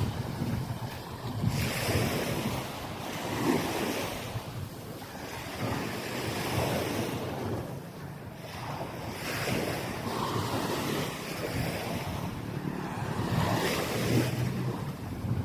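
Small waves breaking and washing up on a sand beach, the surf swelling and fading every couple of seconds, with wind buffeting the microphone.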